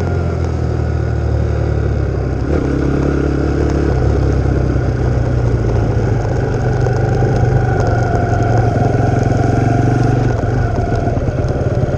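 Pit bike's YX150 single-cylinder four-stroke engine running under way, its revs holding fairly steady with a short dip about two and a half seconds in and a drop near the end.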